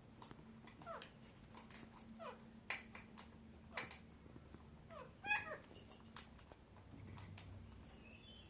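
Pet parrot giving short, faint, squeaky calls that slide downward in pitch, about once a second, with sharp clicks in between.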